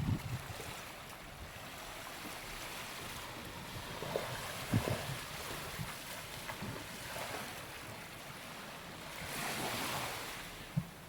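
Sea waves washing onto a sandy beach, with one wave surging up louder near the end. A few short, soft thumps sound now and then.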